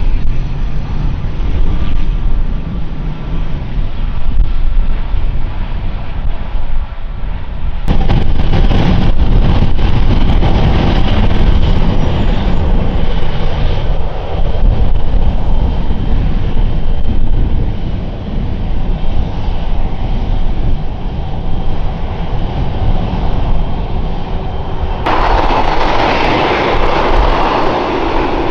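Airliner engines running loud, a dense continuous rumble. The sound changes abruptly about 8 seconds in and again near the end.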